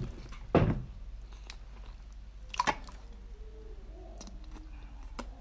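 Close-miked eating sounds of a person biting and chewing chili-coated octopus: wet mouth clicks and squishes, with two louder sharp sounds, about half a second in and just before three seconds in.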